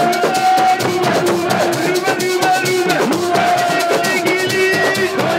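Live percussion music: drums and shaken rattles beating a fast, dense rhythm, with several voices singing and chanting over it.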